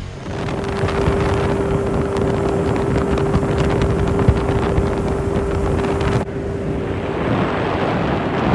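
Boat motor running with a steady hum under heavy wind noise on the microphone; the hum stops about seven seconds in.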